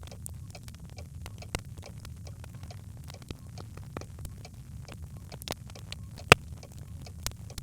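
Birchwood fire in a hearth crackling with irregular pops and snaps over a steady low rumble of the flames, with one sharp, loud pop about six seconds in.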